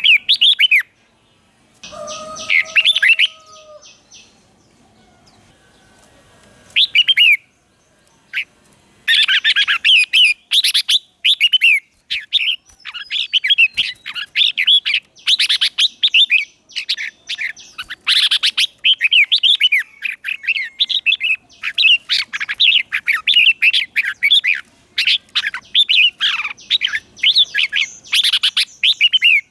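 Red-whiskered bulbul singing: a few short chirpy phrases at first, then from about nine seconds in a near-continuous run of rapid, bubbly warbled phrases. About two seconds in, a brief steady tone sounds along with a call.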